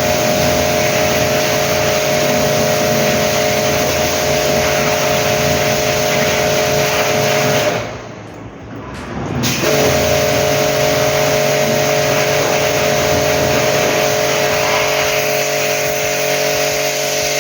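An electric motor running with a steady whine. It drops away about eight seconds in and spins back up a second and a half later.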